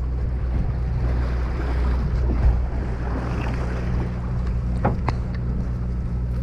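Party boat's engine running with a steady low drone, under wind and water noise. A couple of short clicks come about five seconds in.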